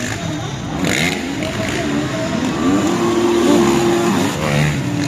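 Motocross dirt bike engines revving, their pitch rising and falling, with one engine held at a steady high rev for a second or so midway.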